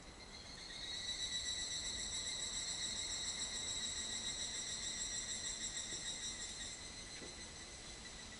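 An insect trilling: a high, rapidly pulsing note that starts about a second in and fades out about seven seconds in.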